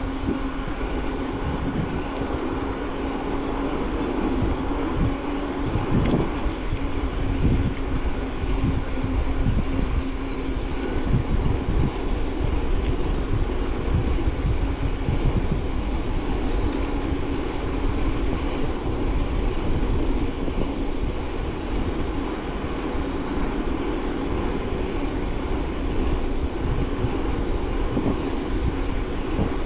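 Mountain bike riding noise picked up by a bike-mounted camera: a steady rolling rumble with constant small knocks and rattles from the path, under a steady low hum.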